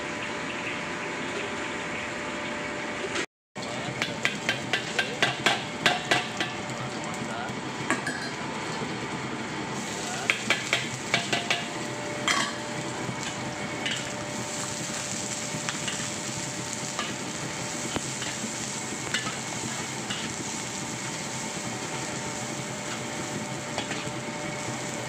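Sliced shallots and garlic frying in hot oil in a wok, sizzling steadily. In the first half a metal spatula stirs them, with a run of sharp clinks and scrapes against the wok.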